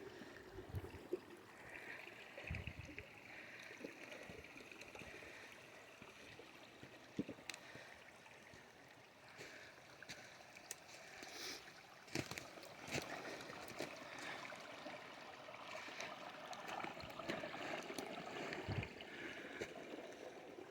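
Faint, steady sound of water flowing in a stream feeding a pond inlet, with scattered small clicks and taps.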